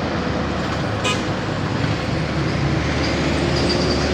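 Truck engine running steadily under load amid road traffic noise, with a brief click about a second in.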